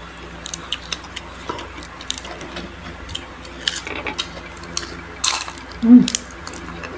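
Close-up chewing of crisp fried food and lettuce: an irregular string of sharp crunches and crackles, with a louder crunch about five seconds in.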